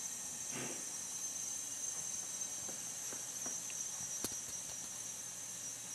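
Steady high-pitched hiss of recording noise, with a soft brief rustle about half a second in, a few faint ticks, and one sharper click about four seconds in.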